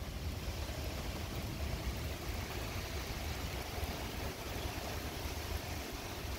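Thunderstorm rain coming down steadily, an even hiss with a low, uneven rumble underneath.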